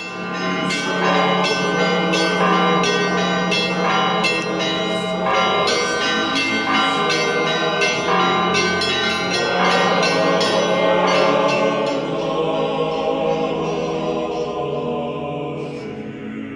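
Church bells ringing: several bells struck in a quick, uneven pattern, the strikes stopping about twelve seconds in and the ringing then fading away.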